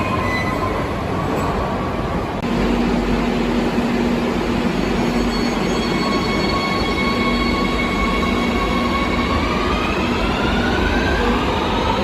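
Electric train running with a steady rumble and the whine of its motors; from about three-quarters of the way through, the whine rises in pitch as the train picks up speed.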